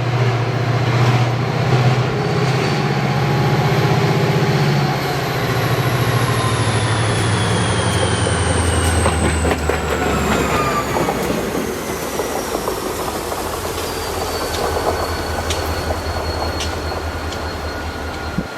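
Diesel locomotive passing close by. Its low engine drone drops lower about five seconds in, wheels click over the rail joints, and a high whine slides slowly down in pitch as the train goes past.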